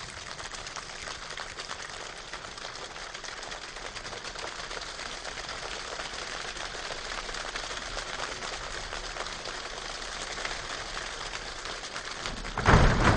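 A choir imitating a rainstorm with body percussion: a dense patter of many finger snaps and claps that slowly builds. Near the end it surges suddenly much louder with heavy low thumps as the 'downpour' and 'thunder' come in.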